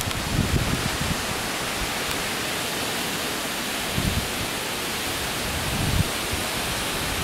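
Heavy rain falling steadily as a constant hiss during a severe thunderstorm. A few brief gusts of wind buffet the microphone.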